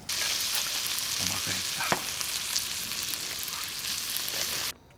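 Food sizzling hard in a hot pan, a steady loud hiss with scattered crackles and pops; it cuts off suddenly near the end.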